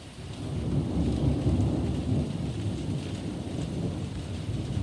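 A rolling rumble of thunder that builds over the first second, peaks, and lingers, over steady rain.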